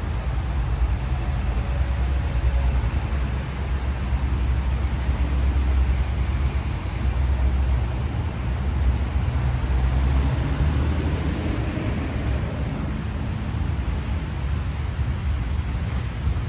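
Low, steady rumble of road traffic, swelling a little in the middle as a car goes by.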